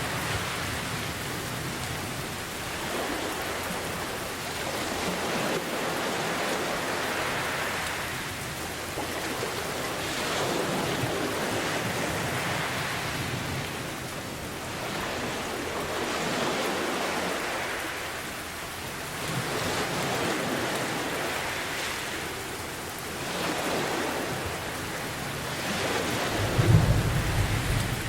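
Steady rain mixed with ocean waves, the wash swelling and fading every few seconds. A deep roll of thunder comes in near the end.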